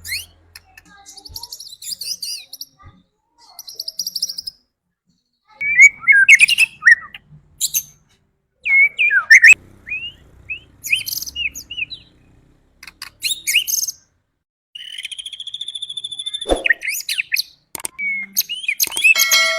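White-rumped shama (murai batu) singing: a string of loud, varied whistled phrases and chirps broken by short pauses, with one longer, steady trill about three-quarters of the way through.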